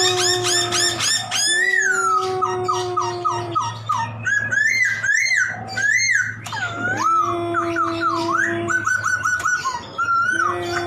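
Laughingthrush (poksay) singing a varied song: long level whistled notes alternating with runs of quick, repeated rising chirps and looping, swooping phrases.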